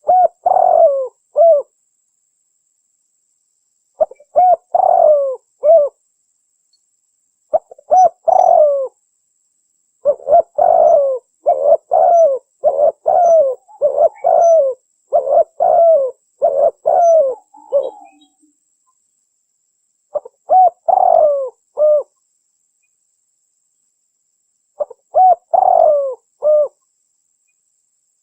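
Spotted dove cooing: short groups of soft, rolling coos with silent gaps between, and a longer unbroken run of repeated coos in the middle.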